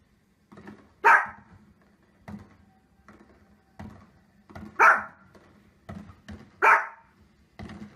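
Small fluffy dog barking: three loud, sharp single barks a couple of seconds apart, with fainter short knocks in between.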